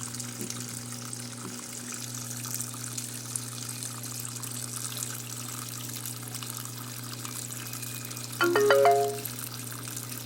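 Electrolux LT12 top-load washing machine filling with water for a maximum-level wash: a steady rush of water into the drum over a constant low hum. A brief, louder pitched sound comes near the end.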